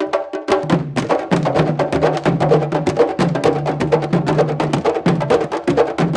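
Candombe drumming: several drums struck in a dense, fast rhythm, sharp clicks among deeper drum tones.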